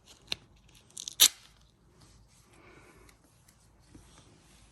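A piece of duct tape being cut and handled: a few sharp clicks in the first second and a half, the loudest about a second in, then faint rustling.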